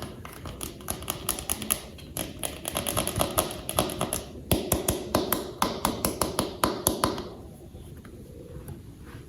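Hands handling and fitting small plastic toy parts: a quick run of light clicks and taps that thins out and goes faint about seven seconds in.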